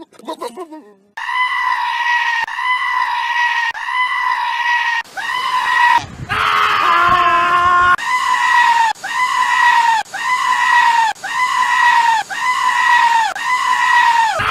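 A goat bleating over and over in loud, human-like screams, about a dozen short calls in quick succession, coming faster and more evenly in the second half.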